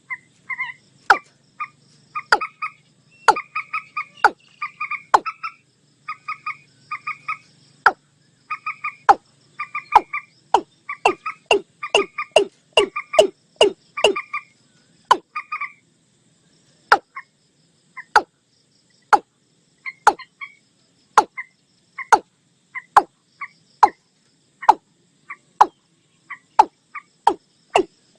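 Calls of the watercock mixed with calls of the common moorhen, a lure recording for night use: a long run of sharp short calls, about one to two a second and closer together in the middle. Short paired higher notes fall between them through the first half.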